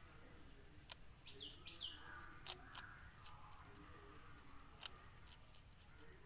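Quiet outdoor ambience: a bird gives two short, high, falling chirps about a second and a half in. A few faint sharp clicks come and go over a steady faint high whine.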